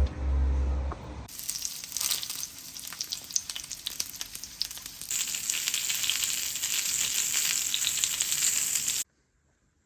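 Heavy rain falling: a dense hiss full of fine pattering. It gets louder about five seconds in and cuts off suddenly near the end.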